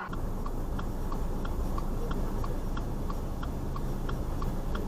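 Steady, even ticking, about two to three ticks a second, over a low steady rumble.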